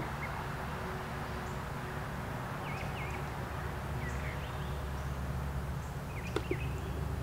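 Birds chirping in short calls, in a few small groups a second or two apart, over a steady low background hum; a couple of light taps near the end.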